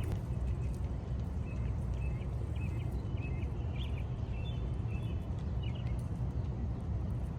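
Steady low rumble of city ambience, with a series of short high chirps through it until near the end.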